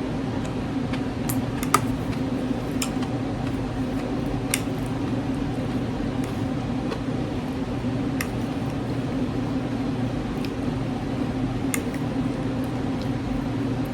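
Quiet eating sounds over a steady low hum, with a few short, sharp clicks scattered through, the kind a fork makes tapping a plate or teeth.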